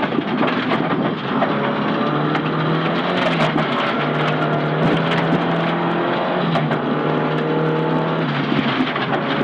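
Nissan Silvia S15 rally car's engine running hard at stage speed, its note holding fairly steady with small rises and dips in pitch, heard from inside the car. Scattered sharp ticks and knocks ride over it.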